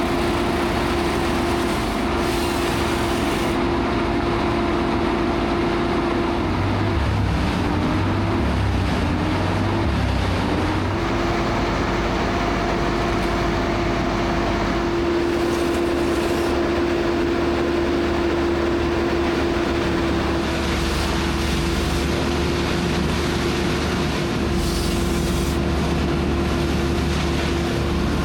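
Engine of power equipment running steadily at high speed with one held tone, which wavers and dips for a few seconds about seven seconds in before settling back.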